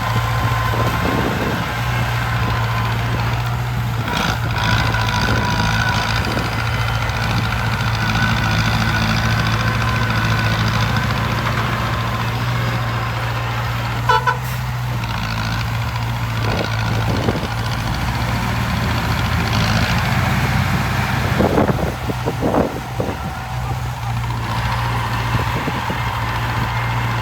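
Heavy construction vehicle's diesel engine running steadily, with a brief run of short beeps about halfway through.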